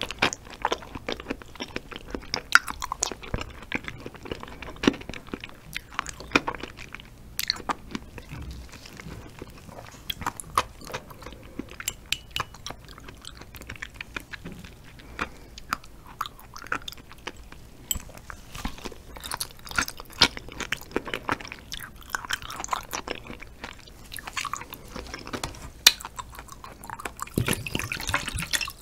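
Close-miked chewing of raw stingray liver: mouth sounds with many short clicks and smacks. Near the end, a milky drink is poured from a bottle into a metal bowl.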